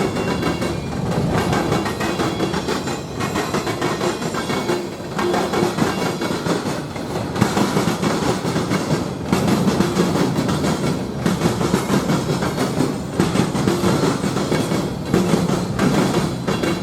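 Train passing with steady wheel and rail noise; the wheels clatter in a regular rhythm that dips about every two seconds as cars go by.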